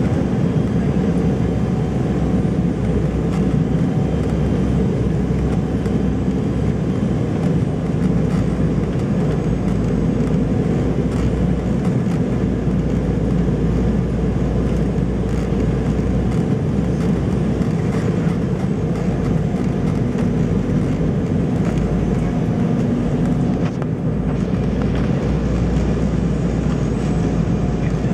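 Steady cabin noise of an Embraer 190 airliner in flight: the drone of its GE CF34 turbofan engines mixed with rushing airflow, with a deep rumble that swells and fades.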